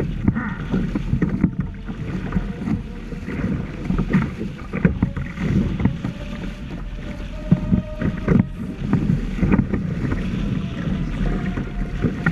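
Water slapping and splashing irregularly against the hulls of a Hobie Tandem Island sailing trimaran under way, over a steady low rumble of wind on the microphone.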